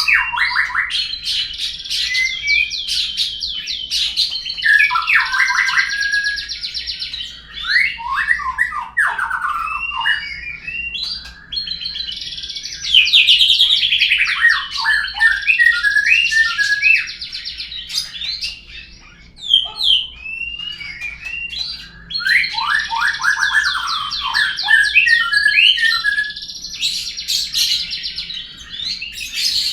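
Murai (white-rumped shama) song, a lure recording of long, varied phrases of whistles and rapid trills, coming in three similar bouts with short gaps between them.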